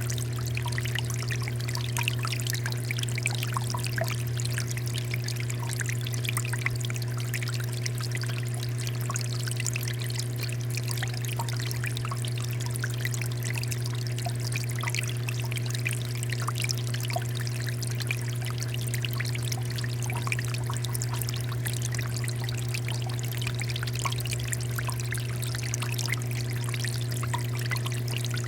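Water fountain pouring and trickling steadily, with many small splashes, over a steady low hum.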